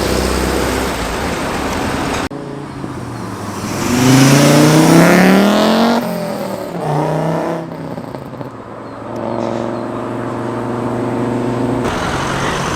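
Cars driving on the road: one car accelerates, its engine note rising loudly for about two seconds, then another briefly revs up, and an engine runs at a steady note near the end.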